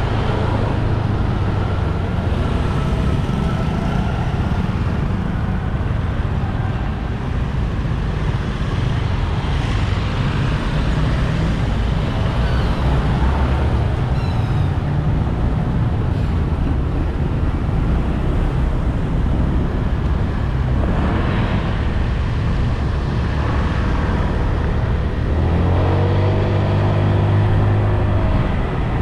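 Motorbike engine running and wind rushing past while riding in road traffic. The engine note swells and rises briefly near the end as it speeds up.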